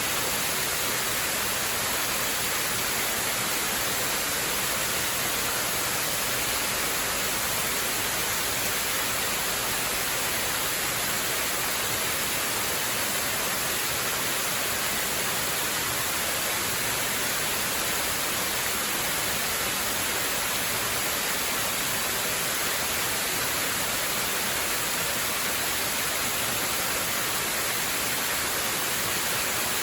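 Waterfall: a steady, unchanging rush of falling water, more hiss than rumble.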